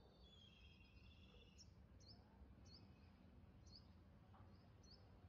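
Faint birdsong outdoors: a brief high twittering phrase in the first second and a half, then a few short, sharp, downward-sweeping chirps at irregular intervals, over a low steady rumble.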